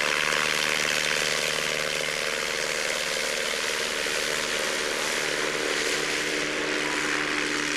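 Propeller aircraft's piston engine running steadily at an even pitch, with a strong hiss of propeller and air noise over it.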